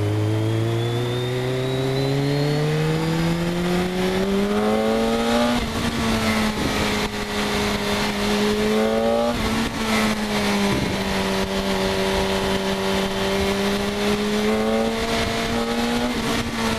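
BMW K1200S inline-four engine with an Akrapovic exhaust pulling hard through the gears. The pitch climbs steadily for about five seconds and drops at an upshift. A shorter pull ends in another shift about nine seconds in, then the engine cruises at steady revs with a small rise and dip near the end.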